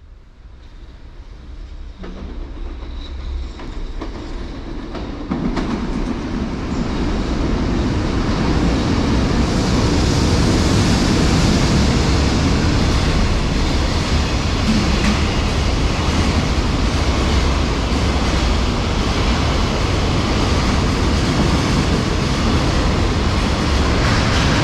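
Freight train, hauled by a JR EF65 electric locomotive, running along the rails with wheels clattering over rail joints. It grows louder over the first several seconds, then holds a steady, loud rumble.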